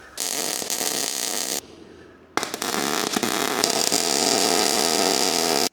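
Arc welding on galvanised steel tube: two runs of steady crackling, the first about a second and a half long, then a short pause and a longer second run that stops abruptly.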